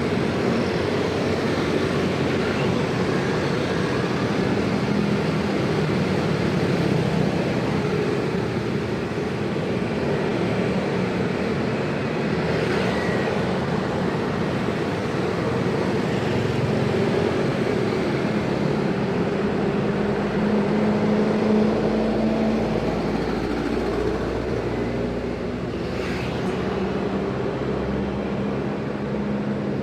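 Dense road traffic: the engines of many vehicles running and passing steadily, with a short sharp sound near the end.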